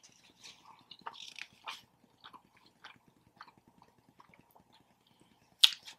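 A person chewing quietly, with soft mouth clicks and smacks scattered throughout and a sharper smack near the end.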